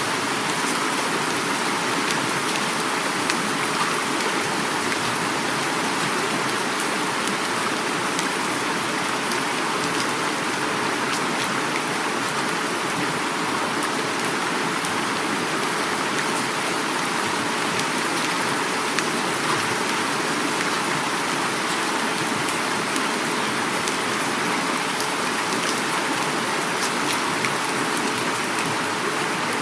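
Heavy rain falling steadily, with the patter of drops on surfaces, mixed with the continuous rush of flowing river water.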